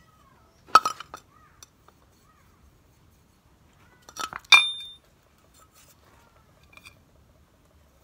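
Metal objects clinking: a sharp cluster of clinks about a second in, and a louder one past the halfway mark that rings briefly, then a faint click near the end.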